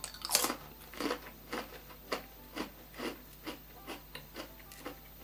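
A person biting into a thin chocolate cracker, one louder crunch just after the start, then chewing it with short crunches about twice a second that grow fainter.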